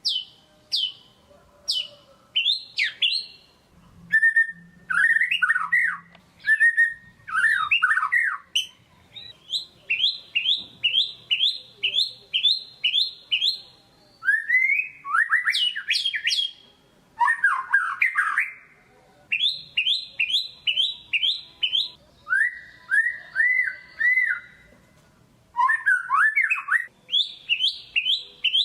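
White-rumped shama (murai batu) singing a loud, varied song: runs of quick repeated whistled notes alternate with lower warbled phrases, broken by short pauses.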